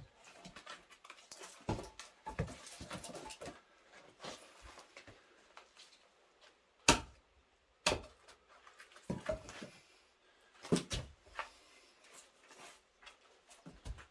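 An axe striking and splitting firewood: one sharp crack about seven seconds in and another a second later, with lighter knocks and clatter of wood around them.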